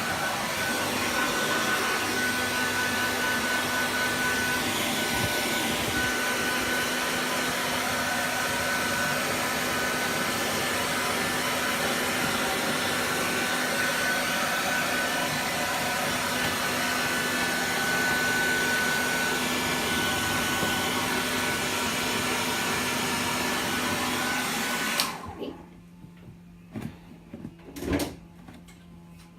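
Hair dryer blowing steadily with a faint high whine, switched off suddenly about 25 seconds in. A few light clicks and taps follow.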